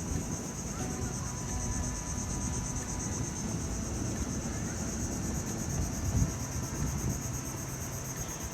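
Steady high-pitched chorus of insects trilling in an even pulse, with wind rumbling on the microphone and a brief low thump a little after six seconds in.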